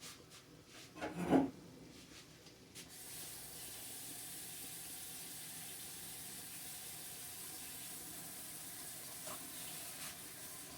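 Kitchen tap running steadily into the sink, turned on about three seconds in, to rinse a knife clean. A short clatter comes about a second in.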